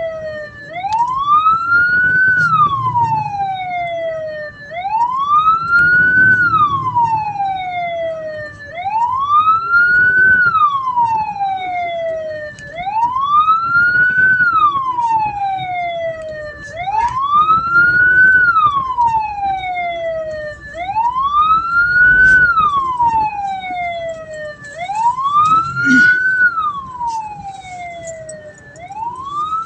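Hearse's electronic siren wailing: a slow tone that climbs and then falls away, repeating about every four seconds. A faint low rumble runs beneath it.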